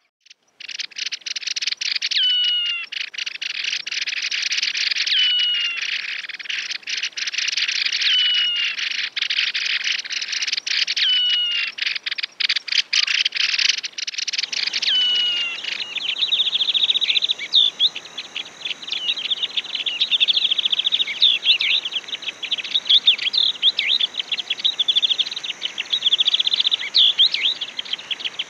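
Recorded song of a yellow-eyed babbler: dense, rapid chattering notes with a clear falling whistle about every three seconds. About halfway through it changes to a faster, tighter chatter over a steady high hiss and more background noise.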